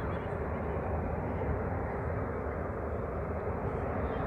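Steady rumble of aircraft jet or turboprop engines, an even noise with no sudden changes.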